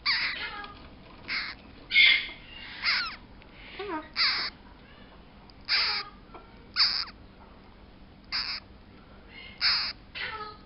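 A parrot squawking: about ten short, harsh calls at irregular intervals.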